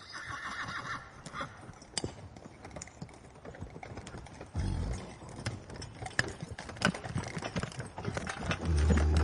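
Horse whinnying briefly at the start, then hooves clopping irregularly, with two spells of low rumble, one around the middle and one near the end.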